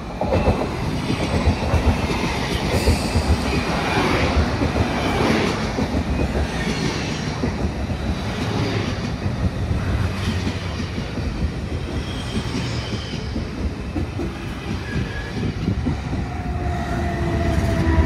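Train running past on the tracks, its wheels clattering over the rail joints with sharp clacks in the first few seconds and some squeal. A faint falling whine comes in near the end.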